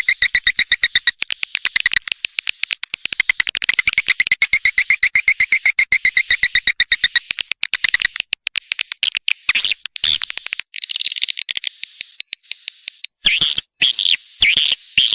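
Swiftlets twittering: a fast run of short, clicky chirps for about seven seconds, then shorter separate bursts of chirping with brief gaps between them.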